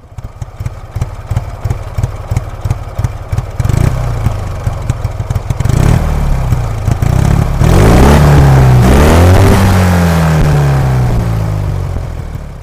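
Motorcycle engine starting up and running with an uneven, pulsing beat, then revved several times about two-thirds in, its pitch rising and falling, before easing off near the end.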